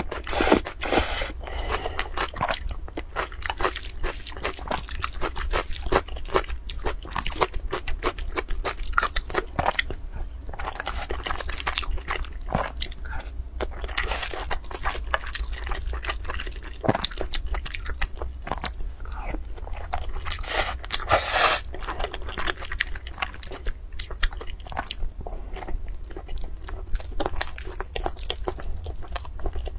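Close-miked chewing of a mouthful of rice with egg and braised pork: a steady run of wet smacks and small clicks of the mouth, a few louder ones, over a steady low hum.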